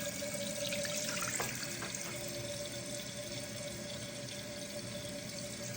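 Toilet tank refilling through its fill valve after the water supply is turned back on: a steady hiss of running water with a faint steady whistle, heard just after a new rubber flapper was installed.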